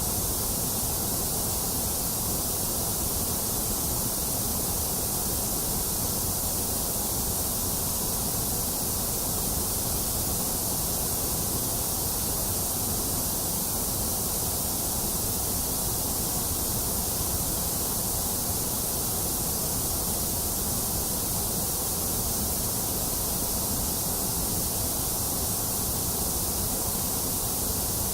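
Steady white noise: a constant, even hiss with no changes.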